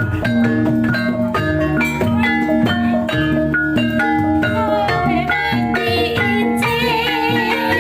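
Javanese gamelan music accompanying kuda lumping: bronze metallophones and gongs playing a repeating melody over regular drum strokes, with a wavering high melodic line coming in near the end.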